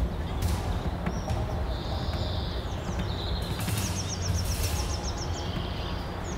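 Wild songbirds calling over a steady low rumble, with a rapid trill of about ten short high notes near the middle.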